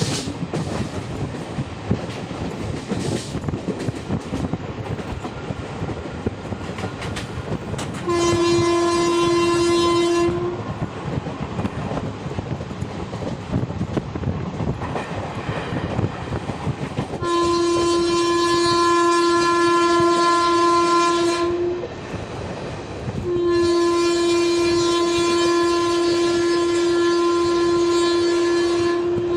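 Indian Railways express train running with a steady rattle and clickety-clack of wheels over rail joints. The locomotive horn sounds three times: a short blast about a third of the way in, then two long blasts near the end.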